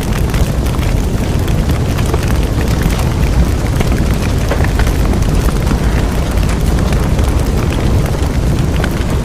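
Bonfire burning with a steady low roar and a constant scatter of sharp crackles and pops from the burning wood.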